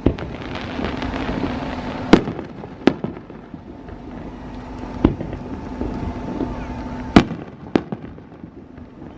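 Aerial fireworks shells bursting: five sharp bangs, two of them much louder than the rest, over a crackling hiss that is strongest in the first two seconds.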